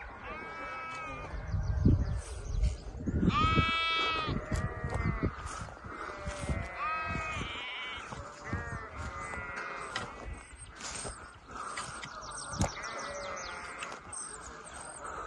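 Farm livestock bleating, a series of calls through the whole stretch. The longest and loudest bleat comes about three and a half seconds in, with low thumps around it.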